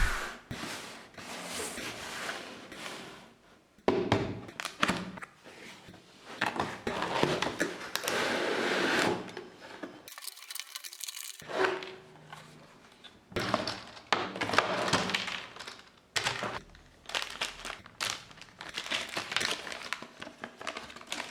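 Packaging being handled and opened: irregular crinkling, rustling and tearing of plastic and cardboard, with scattered thunks as the box and parts are moved about. About halfway through, the sound drops to dead silence for a second and a half.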